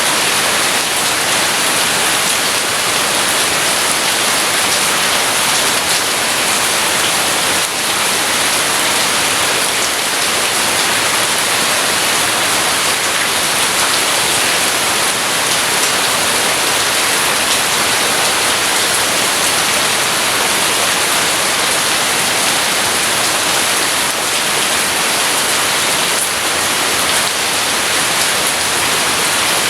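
Steady rain falling, a dense, even hiss with no let-up and no thunder heard.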